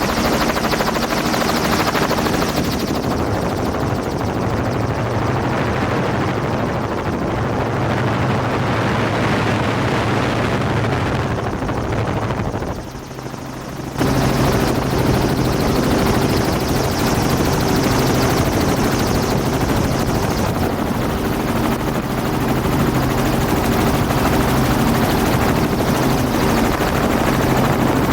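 Helicopter running, a loud steady engine and rotor drone. It fades briefly and then cuts back in about fourteen seconds in.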